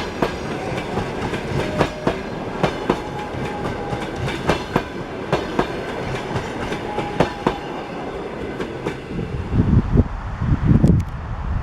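Railway wagons rolling past, their wheels clacking over rail joints in a run of sharp knocks. The clacking fades about nine seconds in, and a low rumble, like wind on the microphone, takes over.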